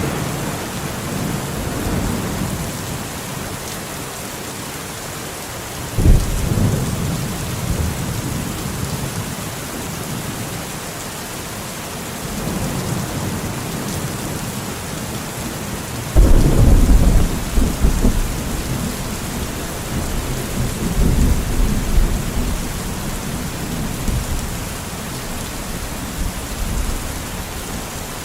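Steady rain with thunder: sharp thunderclaps about six seconds in and again about sixteen seconds in, each rolling off into low rumbling, with further rumbles in between.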